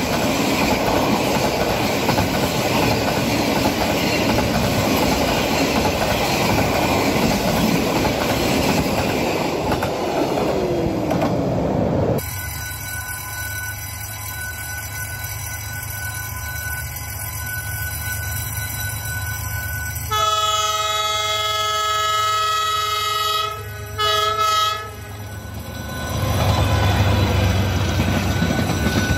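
Container freight train rolling past close by, its wheels clattering over the rail joints. After a cut, a distant diesel locomotive sounds its horn with a long blast and then a short one. Then passenger coaches rumble past heavily.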